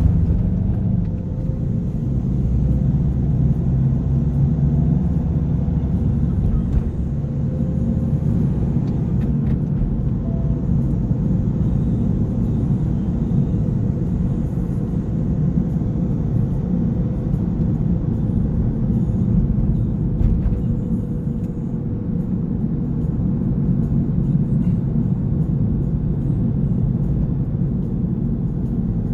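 Steady low rumble of a car on the move: engine drone and road noise holding at a fairly even speed.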